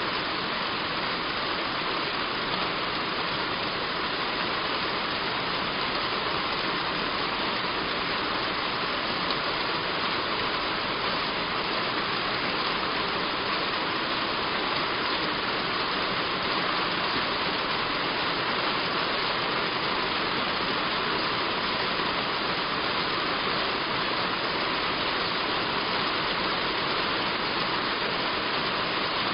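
Heavy rain falling on a roof, a steady, even hiss of countless drops with no letup.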